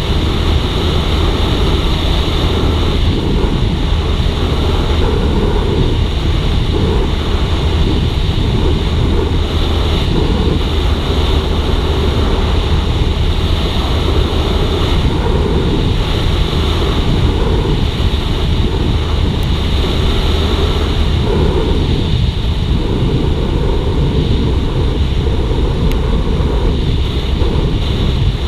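Wind rushing over the microphone of a moving Suzuki GSX-R150 motorcycle, with the steady drone of its small single-cylinder engine underneath. The noise holds even throughout, with no clear revving.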